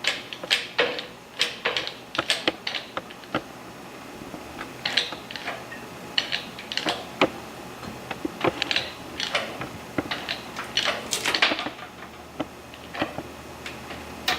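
A ratcheting lifting mechanism clicking irregularly, a few clicks a second, as it raises the tractor weights and loads the urethane-bonded chain links.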